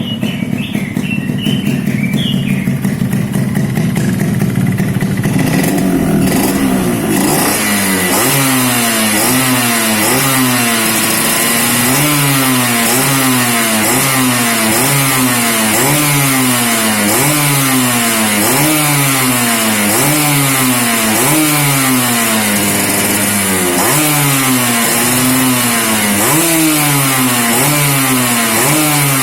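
Yamaha RX-S motorcycle's two-stroke single-cylinder engine through a whistling aftermarket exhaust. It runs at low revs at first, then from about seven seconds in is revved in quick throttle blips about once a second, each rising and falling in pitch, over a steady high hiss.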